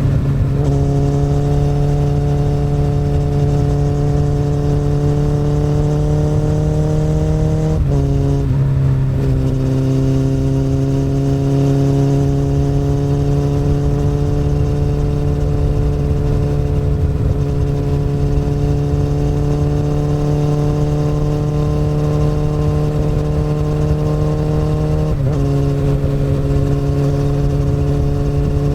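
Akrapovic exhaust on a 2008 Honda CBR1000RR SC59's inline-four engine, pulling steadily with the pitch slowly rising. The pitch drops suddenly at gear changes about 8 seconds in and again near the end.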